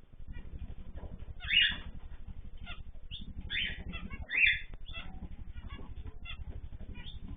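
Ornamental cage birds chirping and calling, with two louder calls about a second and a half and four and a half seconds in, over a steady low, rapid fluttering hum.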